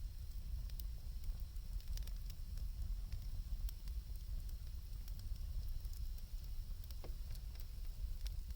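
Wood campfire burning, with faint scattered crackles and pops from the burning wood over a steady low rumble.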